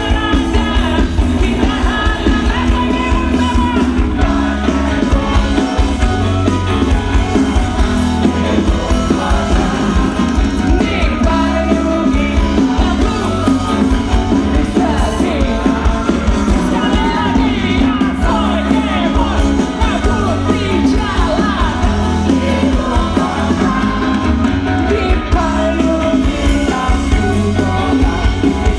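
Live rock band playing a song with a sung lead vocal over bass, drums and guitars, loud and continuous.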